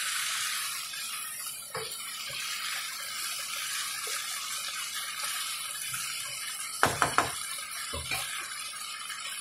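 Pork, string beans, onion and tomato frying in oil in a nonstick pan with a steady sizzle. A metal spatula scrapes and knocks against the pan a few times, most sharply twice about seven seconds in and once about a second later.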